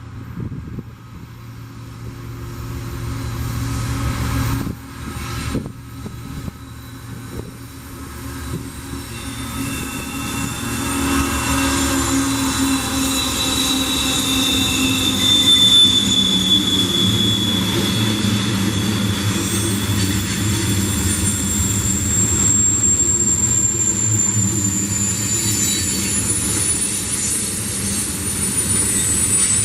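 Freight train passing: the diesel locomotives run low at first, then the loudness builds as the cars roll by with high, drawn-out wheel squeals from the rails.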